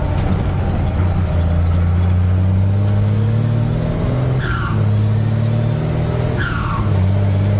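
Truck engine pulling under load, its note climbing slowly and then dropping at a gear change, twice. A short falling whistle comes with each shift.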